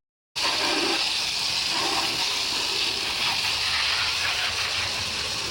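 Water spraying in a steady hiss, starting suddenly just after the beginning.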